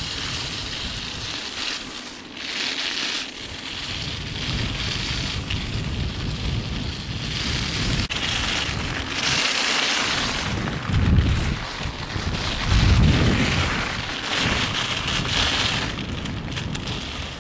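Wind blowing across the microphone: a continuous rushing noise, with two heavier low gusts about eleven and thirteen seconds in.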